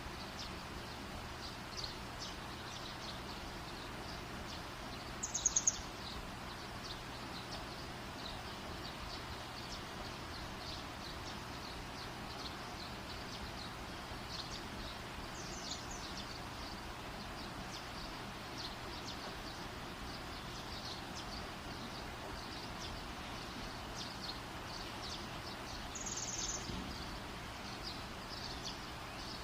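Wood fire burning with a steady soft hiss and constant small crackles, with louder sharp crackles three times, about ten seconds apart.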